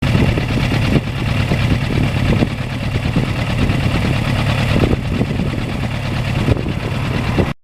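Motorcycle engine running steadily, cutting off suddenly near the end.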